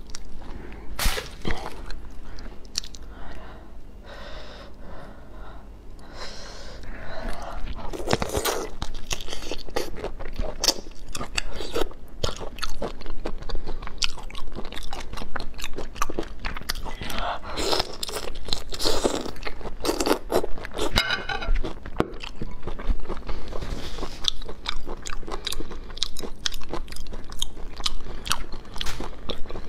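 Black tiger prawns being peeled by hand and eaten: dense crackling and clicking of shell pulled apart, then wet chewing and biting of the prawn meat, in irregular bursts.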